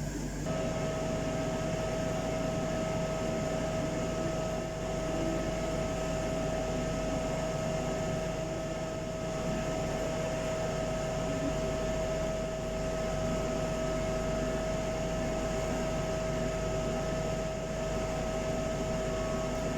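Microwave oven running: a steady hum with a steady whine, switching on about half a second in.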